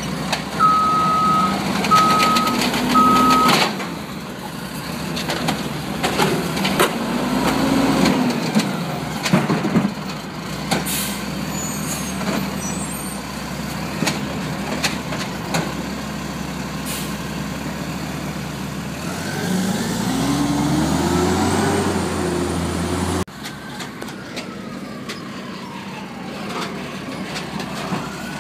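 Garbage truck working: its reverse alarm beeps three times, about once a second, over the diesel engine. Later the engine revs up, rising in pitch for a few seconds, before the sound cuts off abruptly to another truck with a falling whine and one more beep at the end.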